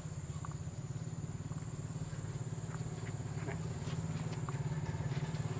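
Restored old tractor engine running steadily with a fast, even low pulse that grows slightly louder towards the end, with a few faint clicks over it.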